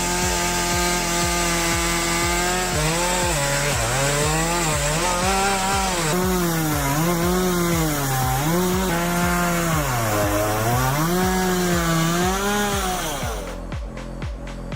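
Chainsaw on a homemade chainsaw mill ripping a log. The engine holds a steady high pitch at first, then drops and recovers over and over as the chain is loaded in the cut. It stops abruptly about 13 seconds in, leaving a steady music beat.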